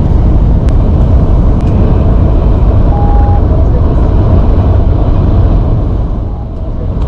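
Steady low rumble of a semi truck on the road, engine and road noise together. A short faint beep sounds about three seconds in.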